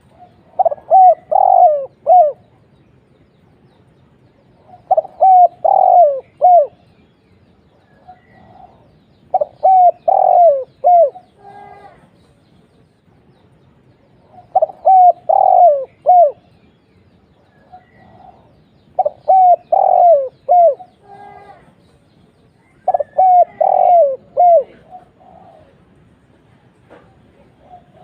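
Spotted dove (tekukur) cooing: repeated phrases of a few falling coo notes, one phrase about every four seconds. The song is the loud-voiced 'kuk 1' type used as a lure to set other tekukur singing.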